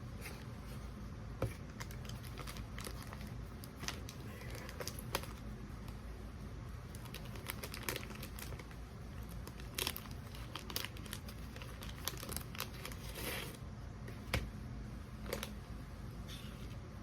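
Plastic snack wrapper being torn open and crinkled, with irregular sharp crackles and short rustles throughout.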